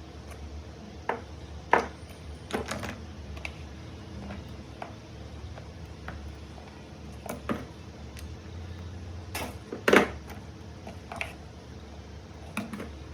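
Irregular sharp clicks and taps of battery-pack assembly work on a bench, about ten in all, two of them much louder, over a steady low hum.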